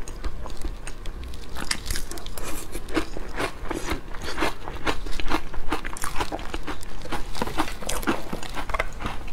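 A person chewing a mouthful of dessert with crunchy nut toppings close to a clip-on microphone: rapid, irregular crisp crunches, several a second, growing fuller about two seconds in.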